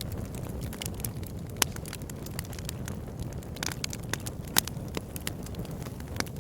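Campfire burning: a steady low rumble of flames with irregular sharp crackles and pops of burning wood, the loudest pops about a second and a half in and again near four and a half seconds.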